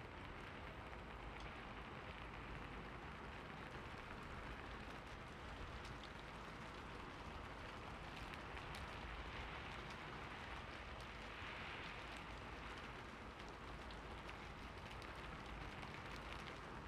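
Steady rain falling, with a continuous patter and scattered drips of individual drops.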